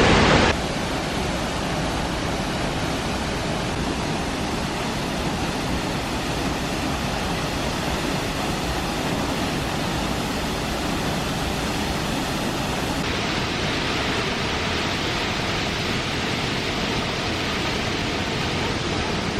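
Steady rushing water, an even, unbroken noise with no voices over it.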